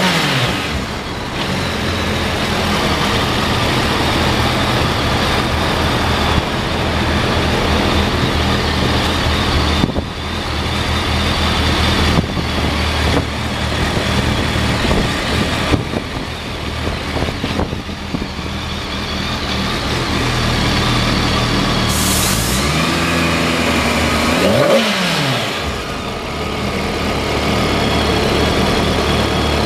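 2007 BMW K1200S inline-four engine running steadily at idle, with one brief rev of the throttle rising and falling about two-thirds of the way in.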